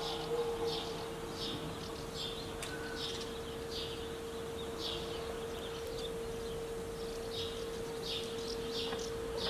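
A bird chirping over and over in short high chirps, at an uneven pace of about one or two a second, with a brief pause past the middle. Under it runs a faint steady hum.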